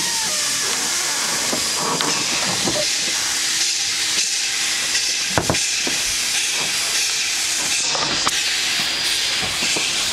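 Steady rushing noise of a moving train, heard from on board, with a few sharp clicks, the loudest about halfway through.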